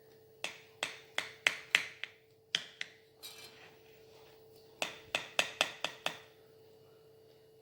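Sharp clicks of a knife against the baking dish while a semolina cake (basbousa) is cut into pieces: a quick run of about six taps, a single one, then another run of about seven.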